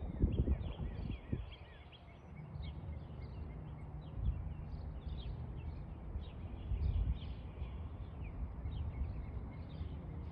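Small birds chirping and twittering throughout, over a low outdoor rumble, with a few stronger low bursts of noise in the first second and a half.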